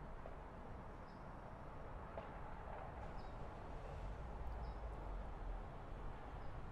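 Quiet ambience: a few faint, short bird chirps, a second or two apart, over a low, steady background rumble.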